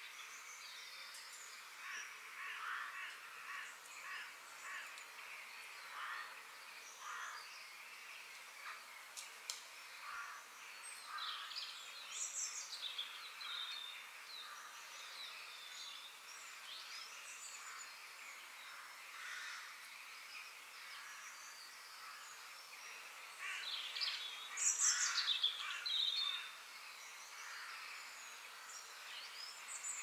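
Several birds chirping and calling over a faint steady background hiss. The calls come in short, scattered notes, with a busier flurry about twelve seconds in and a louder one about twenty-five seconds in.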